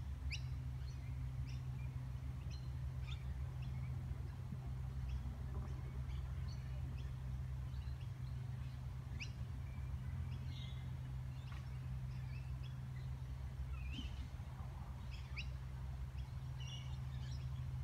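Birds chirping: many short, scattered high notes, some sweeping quickly in pitch, over a steady low hum.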